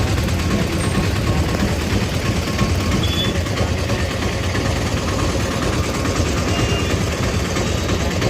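Steady rumble of vehicle engines in a traffic queue.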